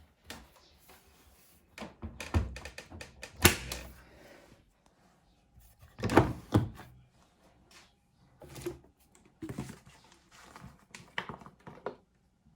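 Irregular thunks, knocks and clicks of a Hoover Link front-loading washing machine being handled while it is loaded and set up. The two loudest knocks come about three and a half and six seconds in.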